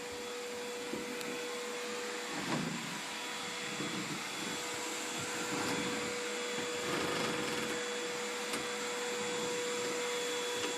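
Vacuum cleaner with hose and floor brush running steadily: a constant hum with a higher whine over the rush of air, which swells and dips a little as the nozzle is worked over the floor.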